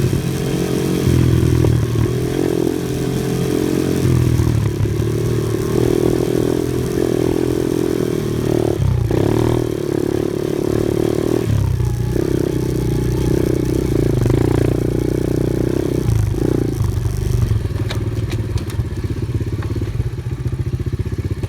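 Off-road vehicle engine running under changing throttle, its note shifting up and down several times, with some clattering and scraping. It settles to a lower, steady running near the end.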